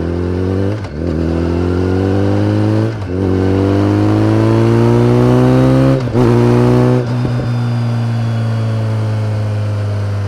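BMW K1300R's inline four-cylinder engine through an Akrapovic exhaust, accelerating through the gears. Its pitch climbs in each gear and drops briefly at each upshift, about four times, and after the last shift it climbs more slowly.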